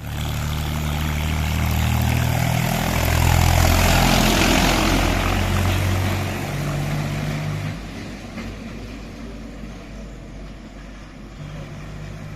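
Tractor's diesel engine chugging as it passes close by, loudest about four seconds in and fading after about eight seconds.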